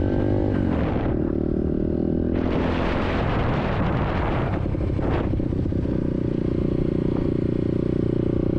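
SSR 150cc dirt bike's single-cylinder four-stroke engine running while ridden: the engine note rises in pitch about a second in, a rushing noise covers it through the middle, and it settles to a steady note in the last few seconds.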